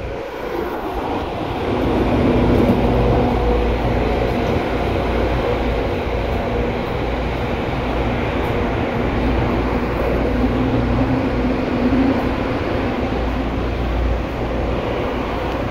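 An 8500-series electric commuter train running on the rails through an underground line: steady wheel and track noise with the faint tones of its Hitachi traction motors, getting louder about two seconds in.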